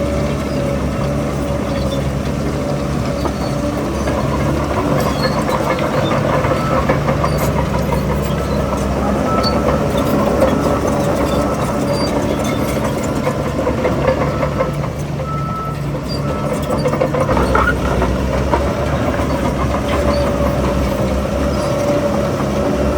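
Heavy diesel earthmoving machinery running steadily under work, with scattered knocks and clanks of metal and rock.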